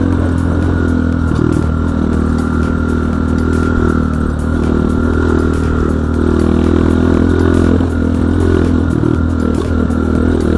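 Enduro dirt bike engine running under way at a fairly steady pitch, easing off briefly a few times, with many small clicks and knocks over it.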